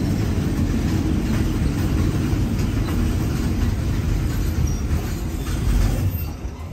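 Passenger train running along the track, heard from aboard a carriage: a steady loud rumble of wheels and rushing air, with faint clicks from the rails. The sound drops noticeably about six seconds in.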